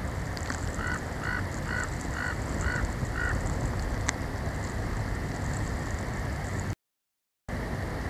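A bird calling six times in a quick, even series of short pitched notes, over a steady noise haze in the storm. A single sharp tick follows, and the sound cuts out completely for under a second near the end.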